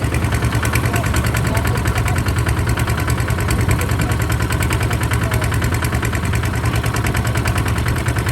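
Kubota RT140 DI single-cylinder diesel engine running steadily with an even, rapid beat.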